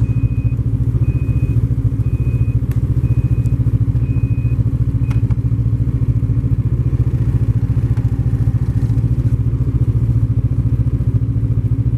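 Vehicle engine running steadily, with a high warning beep repeating about once a second that stops about five seconds in.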